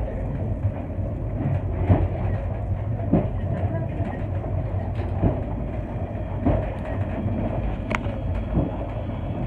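Mtatsminda funicular car running on its rails: a steady low rumble with a short knock every second or two.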